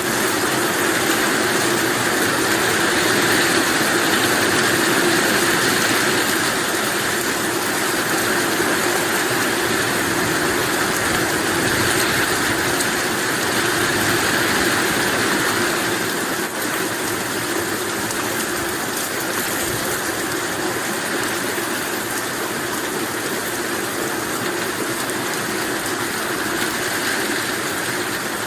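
Steady rain falling, an even hiss without breaks, growing slightly softer about halfway through.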